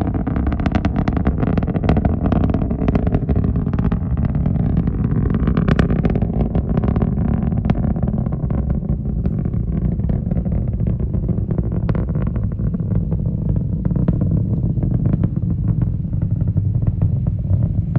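Rocket launch rumble: a steady, deep roar laced with rapid crackling.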